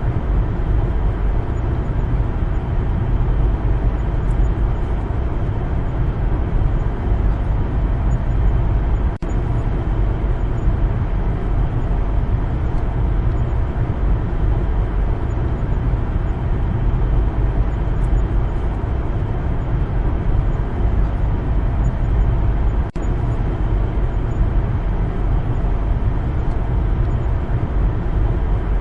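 Steady, deep road and engine noise of a car driving, with no change in pace. It drops out for an instant twice, about nine seconds in and about twenty-three seconds in.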